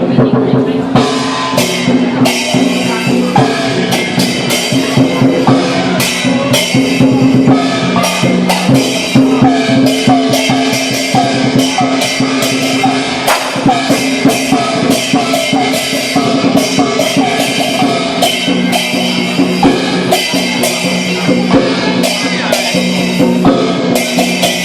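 Lion dance percussion: a big drum beaten in a fast, steady rhythm with crashing cymbals and gong strikes.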